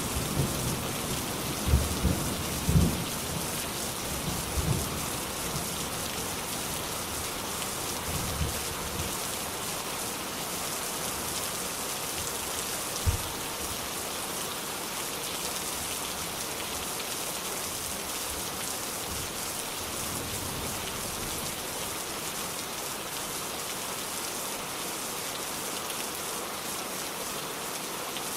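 Steady rain pouring on a surface, an even hiss of many drops. In the first few seconds there are short low rumbles of thunder that die away, and one sharp low thump comes about a third of the way in.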